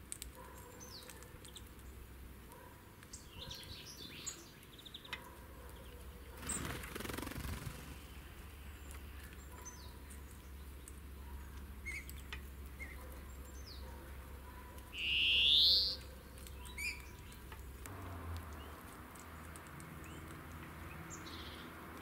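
Small songbirds chirping: scattered short, high chirps throughout. About fifteen seconds in comes one louder call lasting about a second that rises in pitch.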